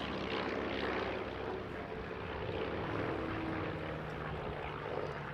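Light piston-engined propeller aircraft flying a display: a steady engine-and-propeller drone, with the pitch shifting slightly partway through.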